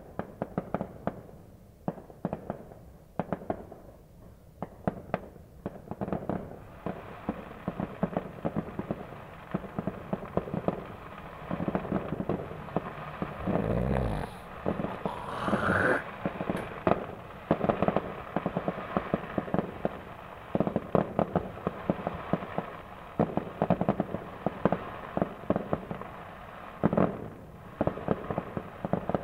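Fireworks going off continuously: many sharp cracks and pops in quick, irregular succession, with a denser crackle after about seven seconds and a few heavier booms around the middle.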